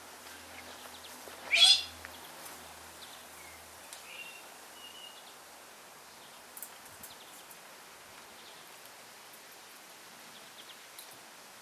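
An aviary parrot gives one loud, harsh screech about a second and a half in, followed by a few faint short chirps and calls.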